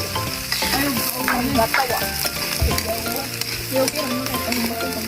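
Diced potatoes and carrots sizzling in hot oil in a pan as they are sautéed and stirred. Faint pitched sounds that bend up and down come and go in the background.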